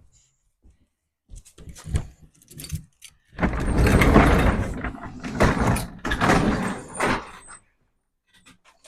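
Shed door being slid open: a few knocks, then a loud rattling scrape lasting about four seconds, with a brief high squeak near the end.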